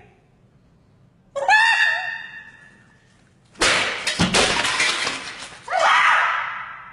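A short high-pitched wavering cry, then about halfway through a loud crash of shattering glass lasting about two seconds, followed by another high cry that fades away near the end.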